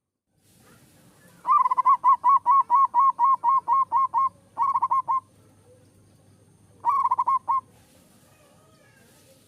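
Zebra dove (perkutut) cooing: a quick run of about a dozen clear, even notes at roughly four to five a second, then two short runs of four or five notes.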